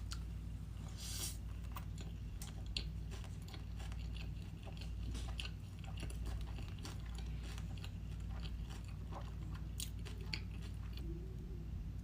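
A person chewing sushi, with many short wet clicks and smacks of the mouth over a steady low hum.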